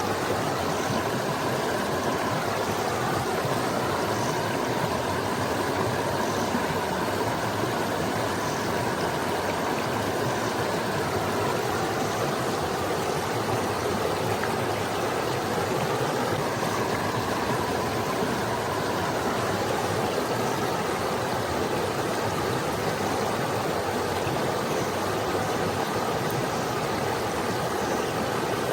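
Forest stream flowing over rocks: a steady, even rushing and burbling of water.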